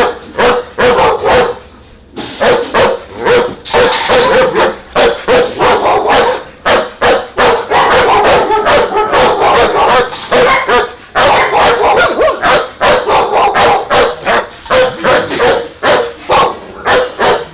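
Dogs barking loudly and rapidly, the barks coming almost without pause and mixed with a few yips, with a brief lull about two seconds in.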